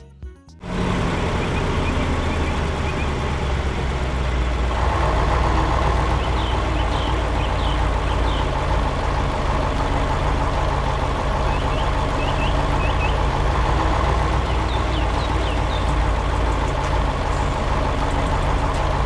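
Heavy construction-vehicle engine running steadily, cutting in suddenly just under a second in, with a stronger higher mechanical note joining about five seconds in.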